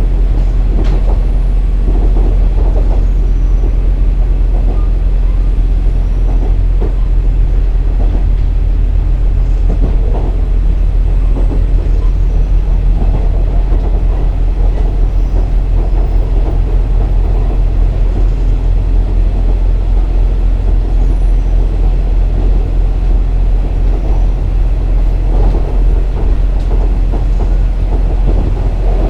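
KiHa 47 3500-series diesel railcar heard from on board while running: a steady low diesel engine drone under wheel and rail noise, with scattered clicks from the track.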